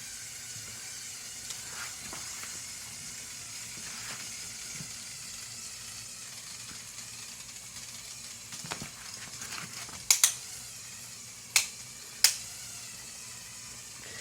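Motor-driven Lego Technic tractor grinding steadily along under a heavy sled load, as a quiet whirring hiss of motor and gears. A handful of sharp plastic clicks come in the last few seconds.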